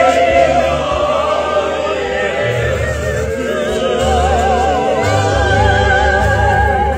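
Live band playing a praise song: several voices singing with a wide vibrato over a bass line that moves from note to note.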